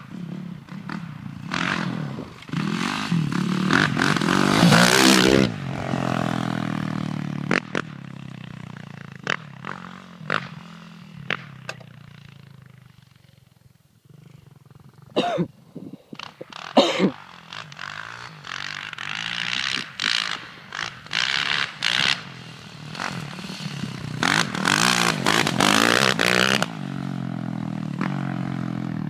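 Yamaha WR450F single-cylinder four-stroke dirt bike with a GYTR 4.1 exhaust, revved hard again and again. It falls back to a low idle about halfway through, then gives a few short, sharp throttle blips, and holds high revs near the end.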